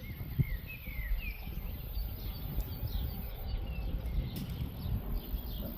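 Small birds chirping: many short falling notes over a steady low rumble.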